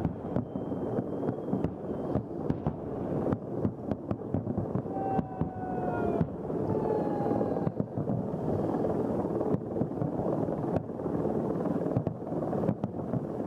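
Fireworks display: a dense, continuous barrage of shell bursts with many sharp bangs running together into a rumble. A faint whistle-like tone sounds twice around the middle.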